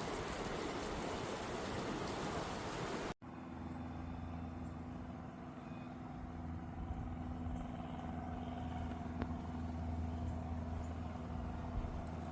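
Outdoor background noise: a steady rushing hiss, then, after an abrupt cut about three seconds in, a low steady hum like distant road traffic.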